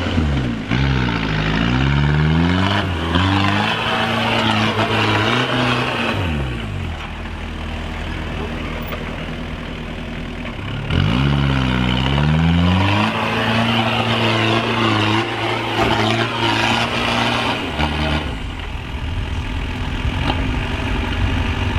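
Off-road vehicle engine revving hard on the trail. Its pitch climbs and drops several times in quick succession near the start and again about halfway through, and between the revs it holds a steadier, lower drone.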